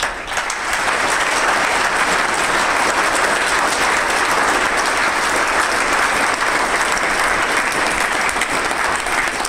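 Audience applauding, a dense steady clapping that starts suddenly and holds throughout.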